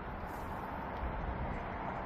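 Steady outdoor background noise: a low rumble and hiss with a faint thin high tone running through it.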